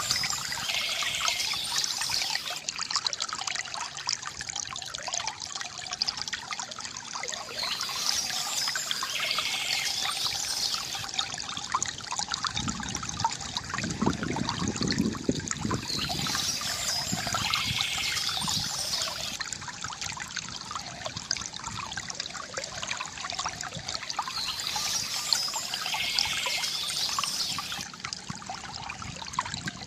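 Water trickling and splashing steadily from a bamboo fountain. A brief high sound recurs about every eight seconds, and the water deepens for a couple of seconds about midway.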